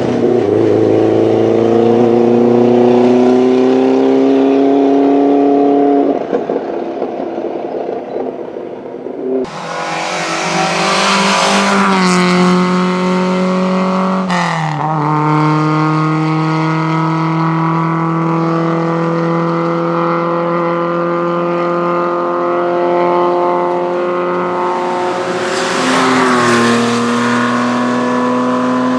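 Historic racing cars accelerating hard up a hillclimb road past the listener, their engines climbing in pitch and dropping at each upshift. Two close passes come about ten seconds in and again near the end.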